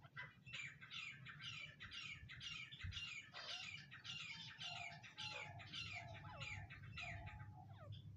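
Grey francolin (teetar) calling: a fast run of repeated high, falling notes, about two a second, with a lower whistled note joining in about halfway through, over a faint low rumble.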